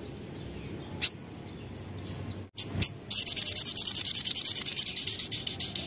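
Sogok ontong (little spiderhunter) calling: a few separate sharp, high-pitched notes, then a rapid trill of about ten repeated notes a second. This is a sogon's excited, breeding-condition chatter, used as a lure call.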